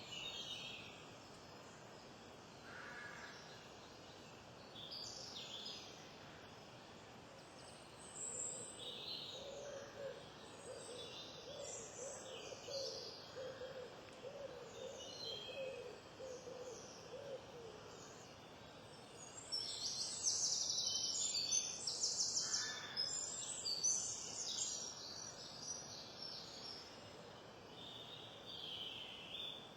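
Wild birds singing and chirping in overlapping high phrases, busiest and loudest about two-thirds of the way through. A low, repeated hooting call runs for about eight seconds in the middle.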